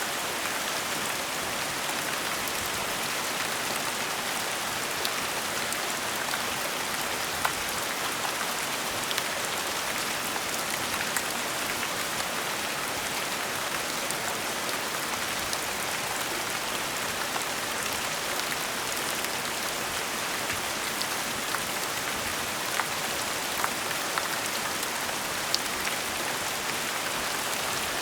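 Steady gentle rain: an even hiss of falling rain with scattered individual drops ticking on a surface.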